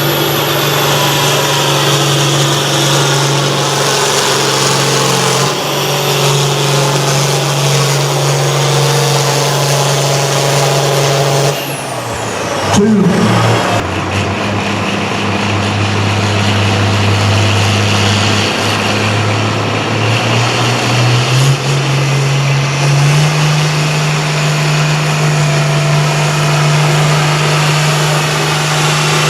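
Diesel pulling tractor's engine running steadily under load. About halfway through, its pitch drops sharply, and near the end it climbs back up.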